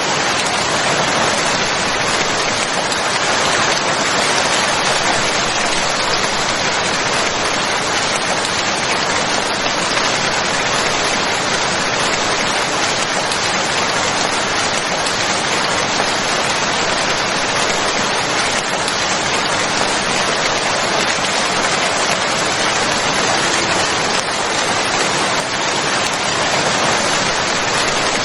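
Steady rain falling, a continuous even hiss of drops on a surface with no breaks.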